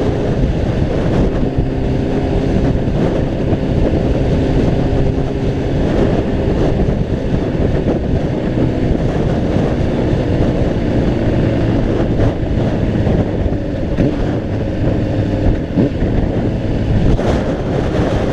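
Gusty wind buffeting the microphone on a moving Honda CBR600RR, over the steady drone of its inline-four engine.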